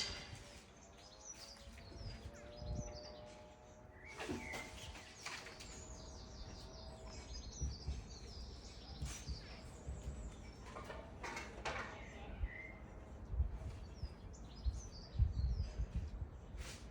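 Small birds singing: quick, repeated high chirps and falling trills. Under them are an uneven low rumble and a few sharp knocks.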